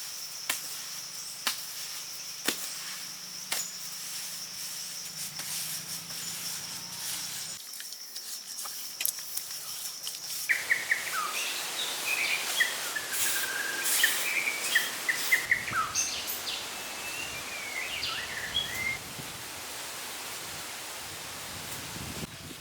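Outdoor ambience: a steady high insect trill with sharp clicks about once a second. About ten seconds in it changes abruptly to birds chirping over a noisy background, with more scattered clicks.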